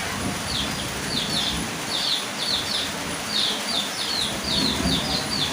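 A small bird chirping again and again, short high chirps that dip in pitch, about three a second, over the steady hiss of falling rain.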